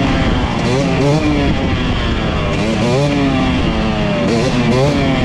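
Dirt bike engine revving up and down again and again, its pitch rising and falling about once a second.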